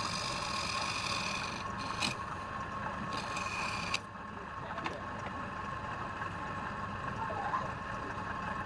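A wood lathe running steadily with a constant whine. A turning tool cuts into the spinning wood twice, adding a hissy scraping over the first second or two and again for about a second near the four-second mark.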